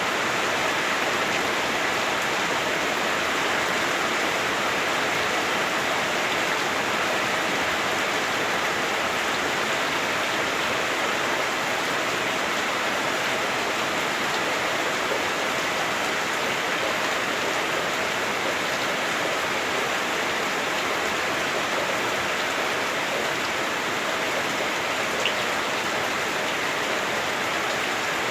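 Heavy rain drumming steadily on a house roof, heard from indoors, a dense, even patter with no let-up.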